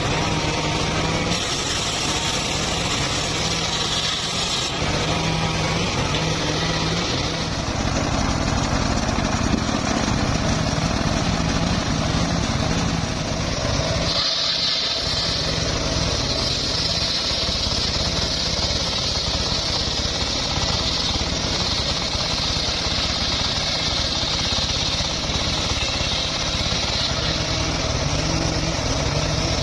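Engine-driven power saw running steadily while sawing mahogany wood, with a brief drop about halfway through, after which a higher hiss rides over the engine.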